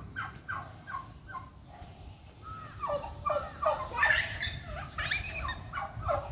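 Turkey gobbling: a rapid run of short, falling calls that grows busier and louder in the middle of the stretch.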